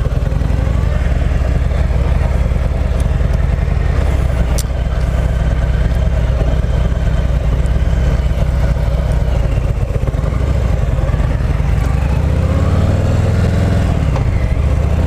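Harley-Davidson Milwaukee-Eight 114 V-twin running as the 2018 Heritage Classic pulls away at low speed in the lower gears. Near the end the engine note rises and then falls again.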